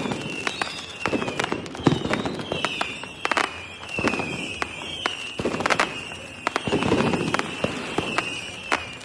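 Fireworks going off: repeated heavy bangs and sharp crackles, over a string of high whistles that keep dipping in pitch.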